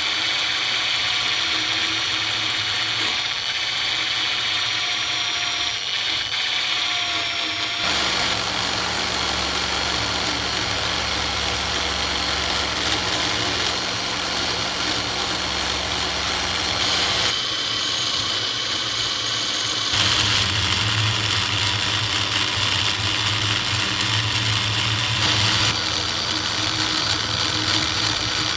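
Steady running of a small electric power tool's motor, with a hum and hiss that changes abruptly four times.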